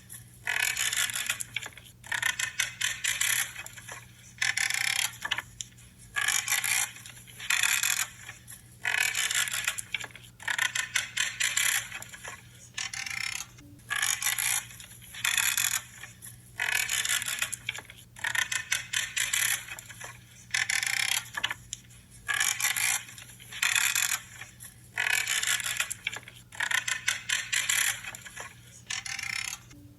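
Branches being cut, each cut creaking and crackling, in an even run of strokes about one every second and a bit.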